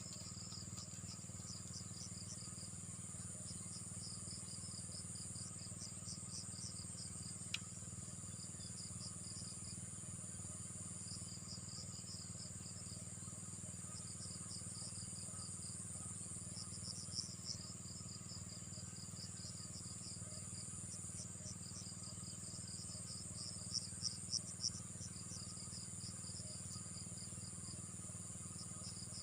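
Chorus of insects chirping in rapid pulsed trains over a steady high-pitched buzz, with a faint low hum underneath and a single click about seven and a half seconds in.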